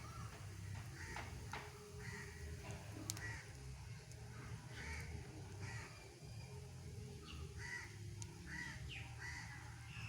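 Birds calling over and over in short arching notes, several in each second or two, over a steady low rumble, with a few sharp clicks, the loudest about three seconds in.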